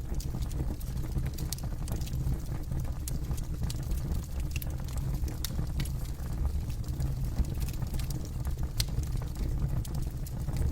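Campfire burning: a steady low rumble with irregular sharp crackles and pops from the burning wood.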